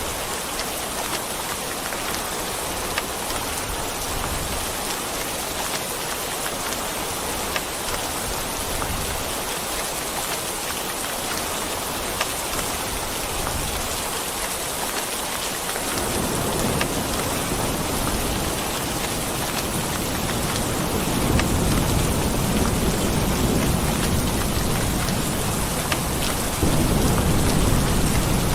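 Steady rain falling with distinct drops pattering on a surface. Low rolling thunder builds in the second half and swells near the end.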